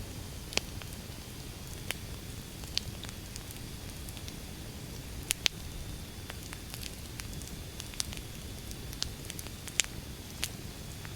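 Firewood burning in a bonfire: sharp, irregular crackles and pops of the logs, a few louder snaps about halfway and near the end, over a low steady rush of the flames.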